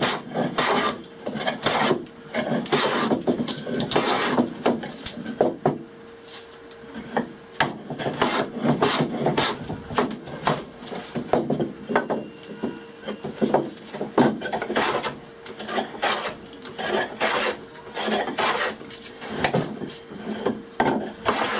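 Hand plane shaving a wooden workpiece in repeated strokes, about one or two a second, with short pauses, as the stock is dressed square and clean.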